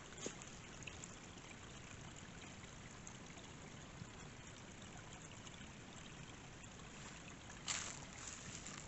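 Faint, steady rush of running water from a waterfall or stream. A brief louder noise breaks in near the end.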